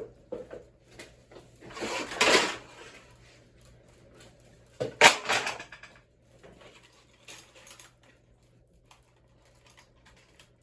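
Hard ceiling-fan parts being knocked about: a scraping rattle about two seconds in, then a sharp bang about five seconds in followed by a short rattle, with scattered light clicks after.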